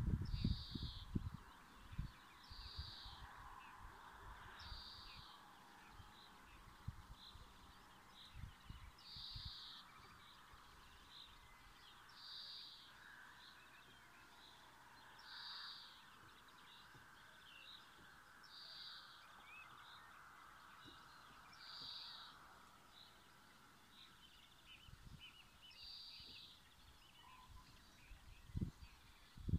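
A bird repeating one short high call about every three seconds over a faint steady hiss. A few low thumps come at the start and shortly before the end.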